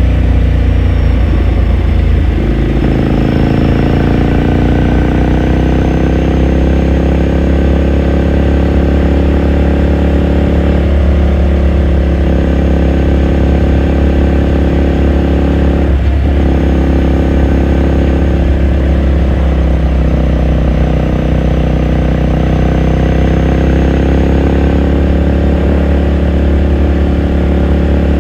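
2018 Ducati Scrambler Sixty2's air-cooled L-twin engine and exhaust heard from the bike while riding. The revs drop about two seconds in and then climb steadily, dip briefly again about halfway through, and otherwise hold a steady cruising note.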